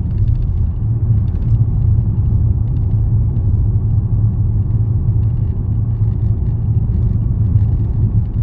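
Steady low rumble of a car on the move, heard from inside the cabin: engine and tyre road noise at a constant cruising speed.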